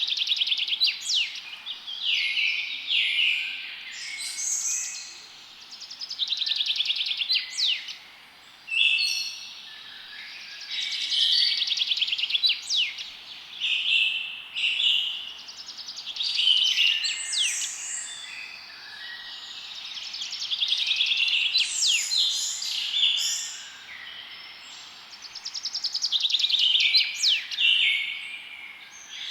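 Forest songbirds singing: phrases of fast, high trills and chirps every second or two, over a faint steady hiss.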